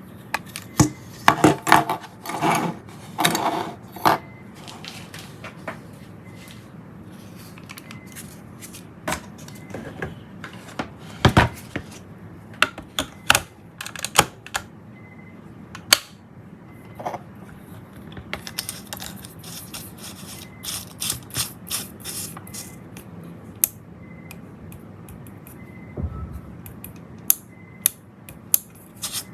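Irregular clicks, taps and light rattles of small hard parts and tools being handled, in quick clusters with pauses between.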